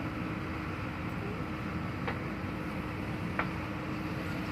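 Heavy farm or construction vehicle's diesel engine running steadily, with a couple of sharp clicks about two and three seconds in.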